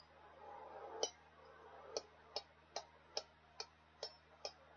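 A run of short, sharp ticks or light taps, about two or three a second and slightly uneven, over a faint steady hum.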